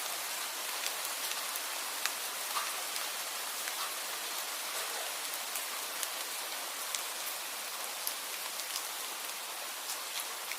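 Steady rain, an even hiss with many small, sharper drops ticking irregularly through it.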